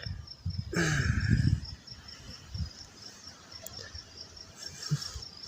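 A cricket chirping steadily in the background: a fast, even train of high-pitched pulses. About a second in, a brief low rumble and rustle cuts across it.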